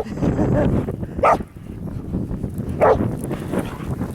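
A dog barking three times, short single barks about a second and a half apart, over a steady low noise.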